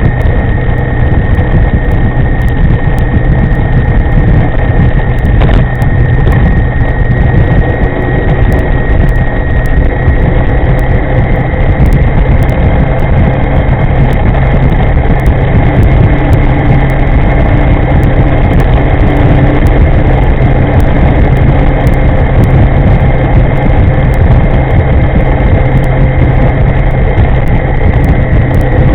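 Riding noise on an electric scooter under way: loud, steady wind buffeting on the microphone with a thin, steady high whine from the electric drive.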